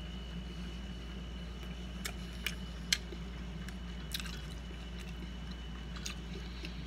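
A man chewing a bite of chicken gyro in soft flatbread with his mouth closed: a few faint wet mouth clicks and smacks, the sharpest about three seconds in, over a steady low hum.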